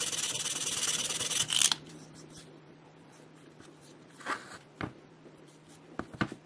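Hand abrasive work on a part, such as sanding or filing: a rapid rubbing scrape that stops about two seconds in. It is followed by a few light knocks and short scrapes over a faint steady hum.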